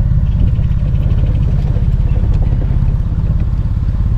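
Tohatsu 20 hp four-stroke outboard motor running steadily, a dense low, rapidly pulsing drone.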